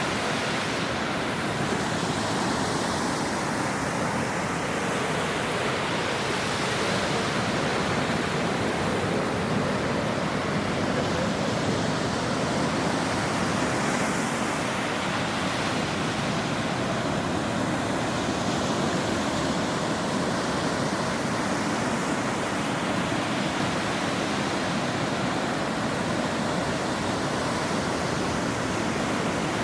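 Ocean surf washing on a shore: a dense, steady roar of breaking water with only gentle swells in the higher hiss and no single wave standing out.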